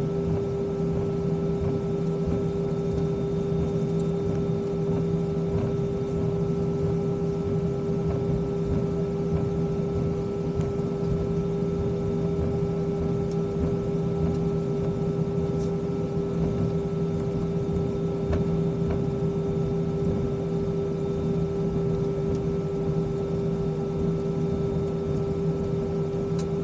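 Airbus A320 cabin noise with the engines at idle on the ground before takeoff: a steady hum with a constant mid-pitched tone over a lower drone.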